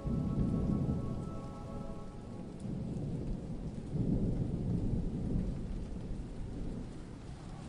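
Thunder rumbling over steady rain, with low rumbles swelling about a second in and again about four seconds in. A held synth chord fades out over the first couple of seconds.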